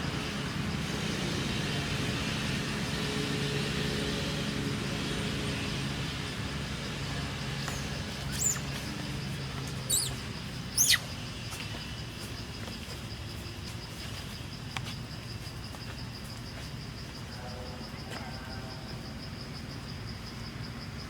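Outdoor ambience: a steady high insect drone over a low hum, with three sharp, brief, falling high-pitched chirps a little before the middle.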